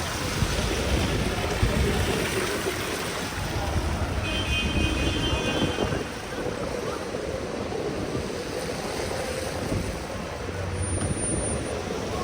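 Busy city street noise: a steady wash of vehicle traffic with wind on the microphone. A brief high tone sounds a little after four seconds in.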